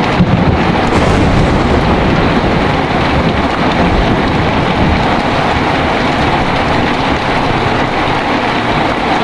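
Heavy rain pouring steadily, with a low rumble of thunder dying away over the first couple of seconds.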